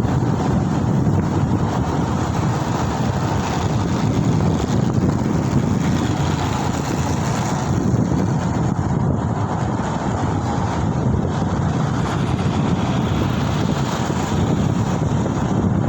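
Wind rushing over the microphone of a camera riding along on a moving two-wheeler, a steady low rush with road noise beneath it.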